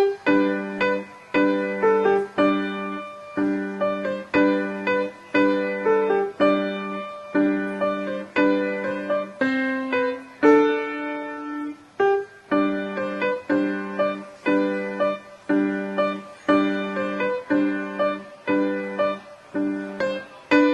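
A piano piece played at a steady, moderate pace: a simple melody over a repeated low note, about two notes a second, with a brief pause about twelve seconds in.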